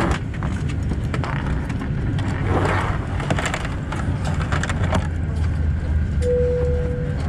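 Inside a Boeing 747-8 airliner cabin after landing: a steady low hum with scattered clicks and rustling, and a single short steady chime near the end.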